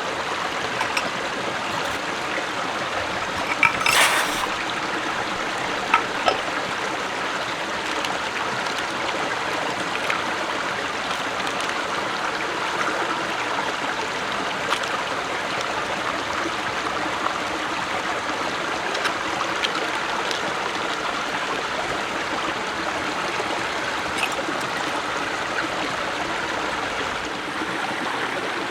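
A stream flowing steadily. There is a sharp click about four seconds in and two smaller ones a couple of seconds later.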